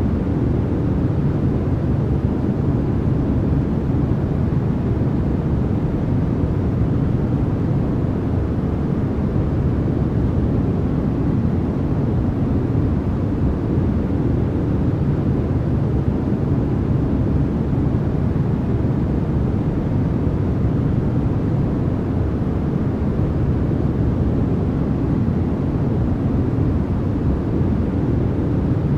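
Steady, unbroken white noise, weighted toward the low end so it sounds deep rather than hissy, with no change in level or character.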